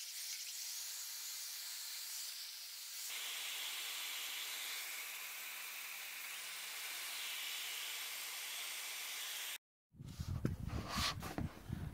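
Steady hissing noise that changes in tone about three seconds in and cuts off abruptly near the end. Irregular low knocks and rustling follow.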